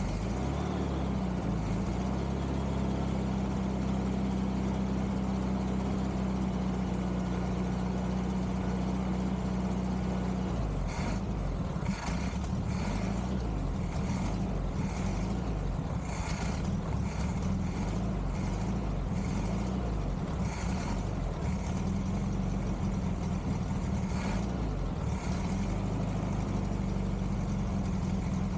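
Volkswagen Beetle's 1500 single-port air-cooled engine running steadily, a continuous low hum whose pattern shifts about ten seconds in. Scattered sharp clicks join it through the second half.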